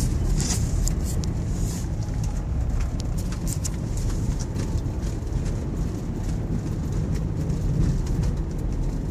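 A four-wheel-drive vehicle driving on a snow-covered road: a steady low rumble of engine and tyres, with scattered brief ticks and crackles over it.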